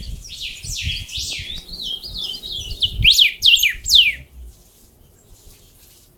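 Hybrid songbird, a rey del bosque × chiviro verde cross, singing a fast warbling run of high notes that ends a little over four seconds in with several loud, sharply falling whistles.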